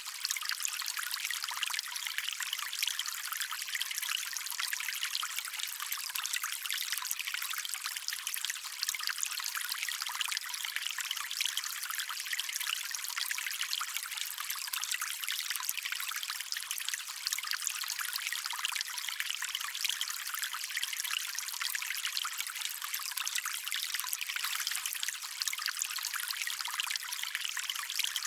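Shallow stream water running and trickling steadily, a bright, even splashing with little low rumble.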